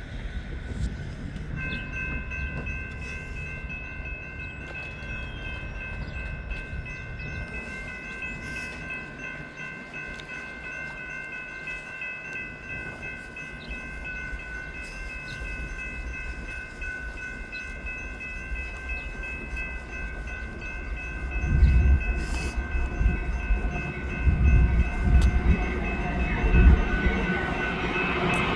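Railroad grade-crossing warning bells ringing steadily as a BNSF intermodal freight train approaches. The low rumble of the train grows louder over the last several seconds.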